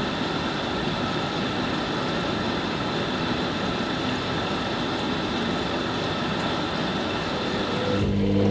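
Hoover Nextra HNL662 washing machine running, a steady rushing noise with a constant motor whine. Near the end the rushing drops away and a low steady hum takes over, fitting the drain pump starting.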